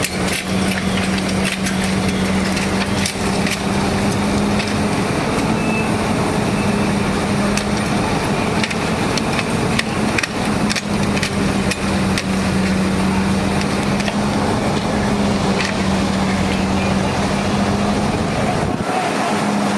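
A fire truck's engine running with a steady hum, under the crackling and popping of a burning house.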